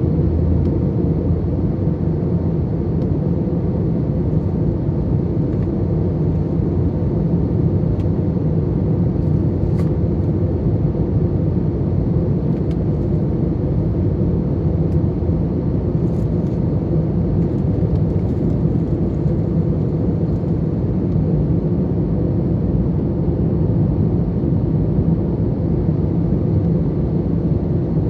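Airbus A321 cabin noise from a window seat in flight: a steady, loud drone of the jet engines and airflow, with a low hum running through it.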